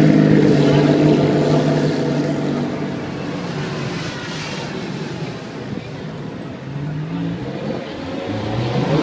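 Car engine running with a steady pitch, then rising in pitch twice in the last few seconds.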